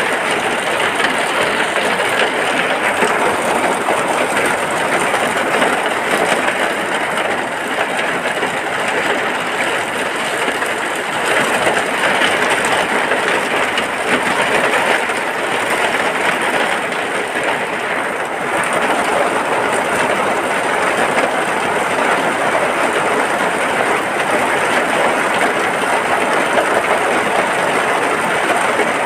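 Steady rain falling, an even hiss that never breaks.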